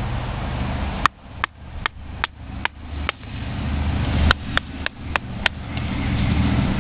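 Batoning: a wooden baton knocking on the spine of a KFU EDC knife to split wood, about a dozen sharp knocks in two runs, two or three a second.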